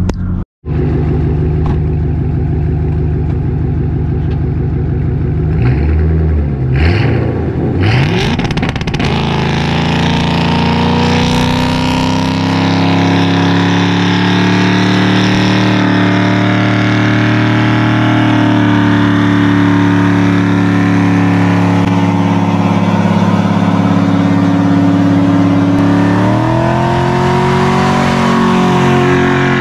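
Ford Mustang GT's V8 blipped a few times, then held at high revs through a burnout as the rear tyres spin on the asphalt. The revs climb higher near the end.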